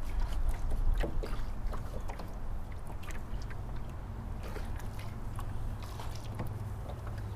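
A low steady rumble with scattered small knocks and clicks: a small fishing boat on the water, with gear being handled aboard.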